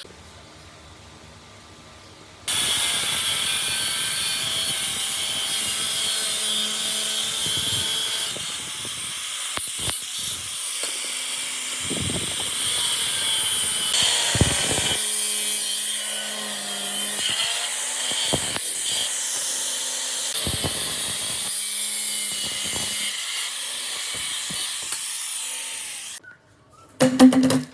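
A power tool running steadily at metal fabrication work, starting about two and a half seconds in and stopping shortly before the end, its pitch changing abruptly several times.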